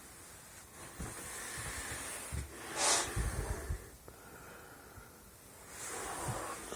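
A sharp breath or sniff close to the microphone about three seconds in, with a softer one near the end, among a few low thumps.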